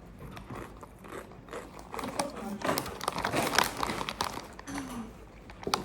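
Crinkly potato chip bag rustling and chips being crunched in the mouth, in a string of short crackly rustles, with a brief hum of approval about three-quarters of the way through.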